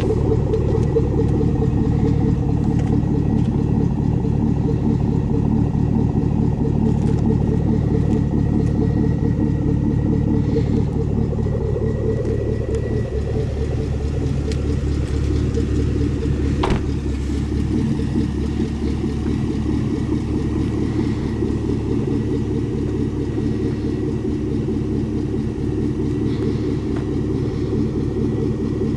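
2011 Camaro SS's V8 running steadily through a Magnaflow Competition Series exhaust, a low rumble with no big revs. One sharp click a little past halfway.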